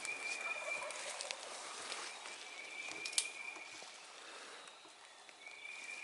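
A small bird in the woods giving a high, even trill three times, each about a second long, with faint rustling and one sharp tick about three seconds in.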